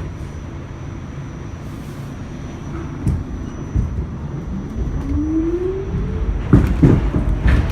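R46 subway train running with a low rumble as it picks up speed; a rising whine from the traction motors comes in about the middle, then loud knocks of the wheels over rail joints near the end.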